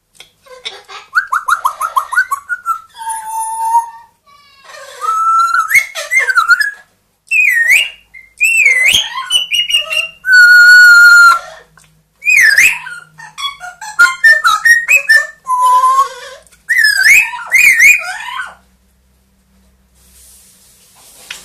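Pet parrot whistling and calling loudly: a string of sliding whistles and squawk-like calls, some quick runs of repeated notes, and one long steady whistle about ten seconds in. It falls quiet near the end.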